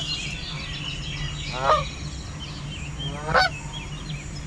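Canada geese honking: two loud honks about a second and a half apart, over a steady chatter of higher-pitched calls.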